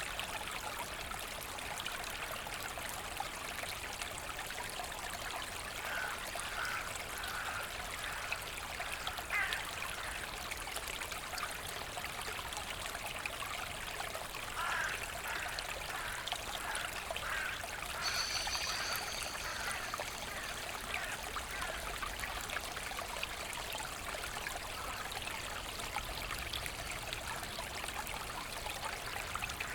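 Forest brook trickling and splashing steadily. A bird calls over it in series of short repeated notes, once about six seconds in and again from about fifteen seconds, with a higher whistle around eighteen seconds.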